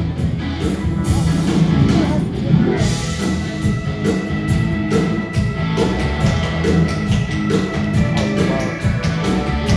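Live rock-and-roll band playing, drums and guitar, with a steady beat.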